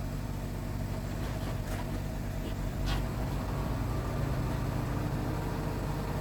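Diesel engine of heavy earthmoving machinery running steadily, with a couple of brief knocks partway through.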